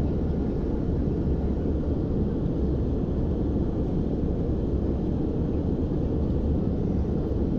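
Passenger airliner cabin noise: a steady, low drone of engines and airflow.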